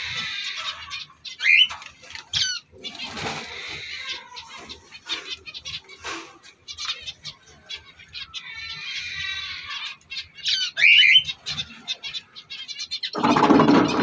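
Small cage birds in an aviary chirping: a couple of sharp calls near the start and a quick cluster of them about eleven seconds in, with light rustling between.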